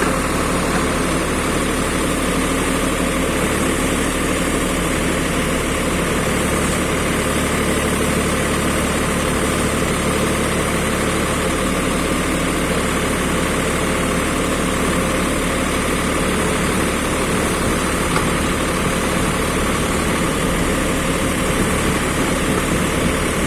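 Backhoe engine running steadily at an even, unchanging pitch and level.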